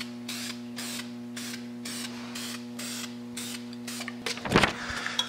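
Hand sanding of the air filter intake tube: rhythmic rasping strokes about three a second over a steady electrical hum, with a brief louder handling noise about four and a half seconds in.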